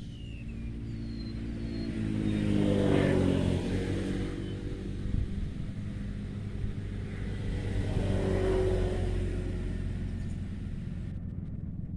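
Two motor vehicles passing by, the first loudest about three seconds in and the second around eight seconds in, the engine note dropping in pitch as the first goes past.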